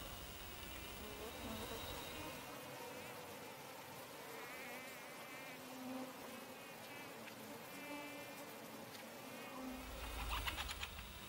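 Faint forest ambience with flying insects buzzing, broken by a few short high warbling chirps and a brief cluster of clicks near the end.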